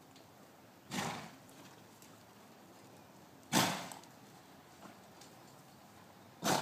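A horse blowing out hard through its nostrils three times, each a short rushing snort about three seconds apart.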